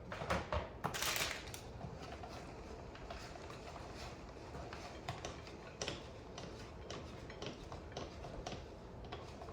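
A hand-cranked rotary cheese grater being turned to shred a block of medium cheddar: a run of small, irregular clicks and scrapes, with a few louder rasps in the first second or so.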